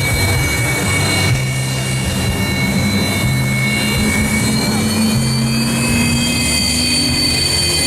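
Su-30MKM's twin AL-31FP turbofan engines running on the ground, a steady jet whine with several high tones over a low rumble. The whine creeps slightly higher in pitch in the second half.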